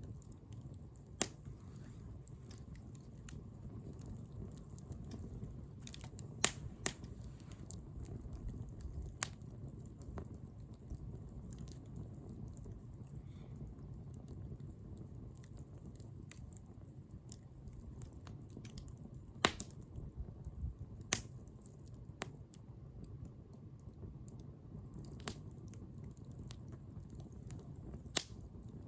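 Wood bonfire crackling: irregular sharp pops and snaps, a few louder ones, over a low steady rumble of the burning fire.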